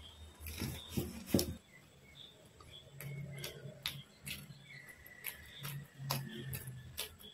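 Close-miked eating sounds as soft food is chewed by mouth: about ten sharp, wet mouth clicks and smacks, spread irregularly and loudest in the first two seconds.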